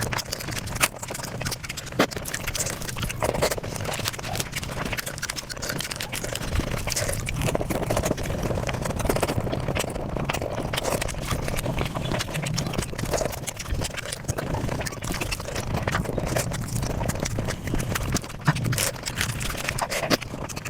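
Close-miked chewing and eating sounds sped up about five times, a dense, unbroken run of rapid crunches, smacks and clicks.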